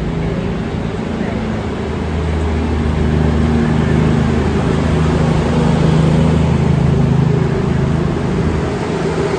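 Diesel train engines running steadily with a low drone, swelling slightly about six to seven seconds in.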